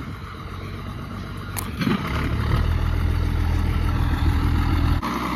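Engine running, with a steady low hum that grows louder about two seconds in.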